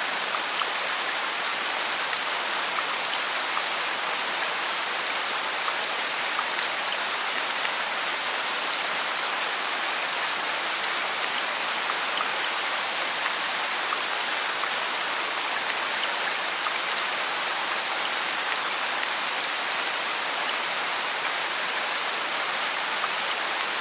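Steady rain mixed with white noise: an even hiss with a fine patter of drops, unchanging throughout.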